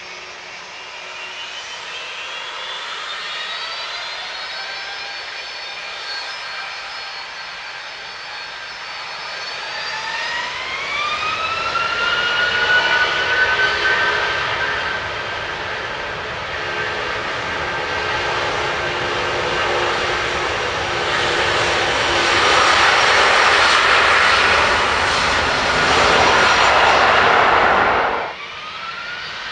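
Boeing 757-200 jet engines spooling up to takeoff thrust: several whining tones climb in pitch, a steep rise about ten seconds in, building into a loud roar. The roar cuts off suddenly near the end.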